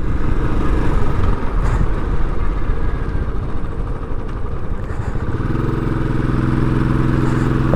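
Royal Enfield motorcycle being ridden, heard from the rider's camera with a low rumbling wash of wind and engine noise. About five seconds in, this settles into a steady, evenly pitched engine hum.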